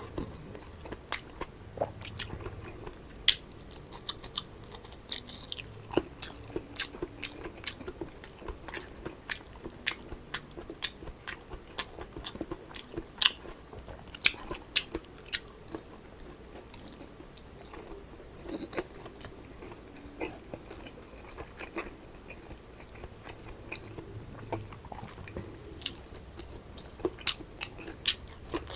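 A person chewing and biting food close to the microphone, with many sharp, irregular crunches scattered throughout.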